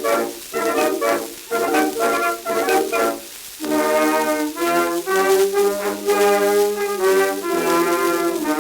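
Instrumental brass music from an early 1900s shellac phonograph record, with narrow, tinny sound and surface hiss: a brass band or orchestra playing melodic phrases with brief pauses between them.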